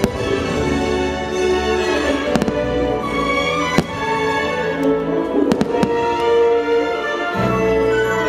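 Fireworks bursting overhead in several sharp bangs, over continuous orchestral show music with held string notes.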